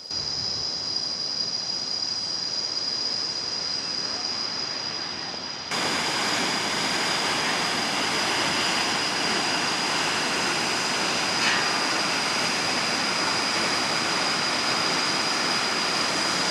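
Steady rush of a waterfall, with a thin steady high-pitched whine over it. The sound steps up louder about six seconds in.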